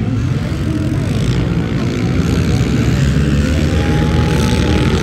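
Several pit bike engines racing together, revving up and down at different pitches as the riders work the throttles around the track.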